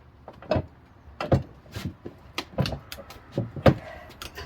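Irregular metal clanks and knocks from the bar and tire iron of a manual tire changer as a tire bead is levered over the rim, with the strongest knocks about a second and a half in and again near the end.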